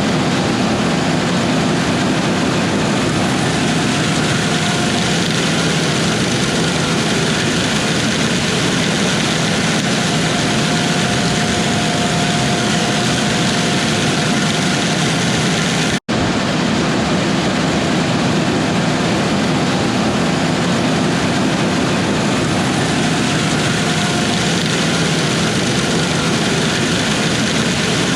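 Heavy diesel harvest machinery, a combine or tractor, running steadily, with a dense, even mechanical drone. The sound breaks off for an instant just past halfway and then resumes unchanged.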